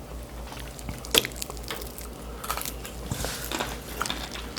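Close-miked chewing and biting of someone eating crab, with small crackles and one sharper crack about a second in.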